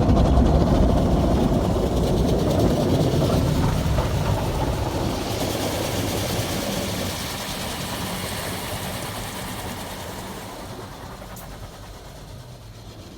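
Automatic tunnel car wash equipment working over the car, heard from inside the cabin: a steady rumbling wash with a hiss that gradually fades.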